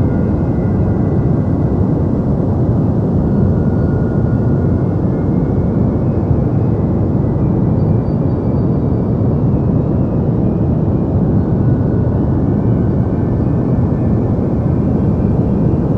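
Deep white noise: a steady, unchanging low rumbling hiss, heaviest in the bass, with faint thin tones drifting in the upper range.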